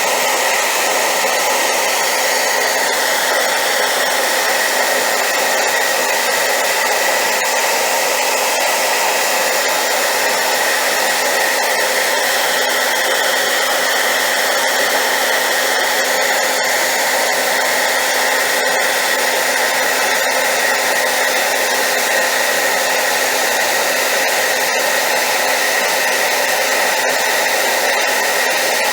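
Hairdryer running steadily on high power: a loud, even rushing blow with a constant motor hum and a whine underneath.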